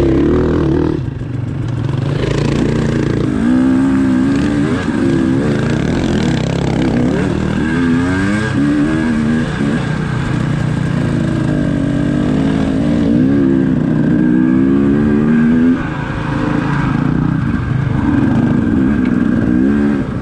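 Off-road dirt bike engine close by, revving up and down over and over as the throttle is worked, with the pitch climbing and dropping every second or two.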